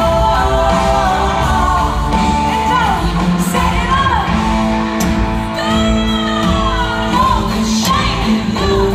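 Country-pop band music played live: a woman singing the lead over a full band, with shouts from the crowd.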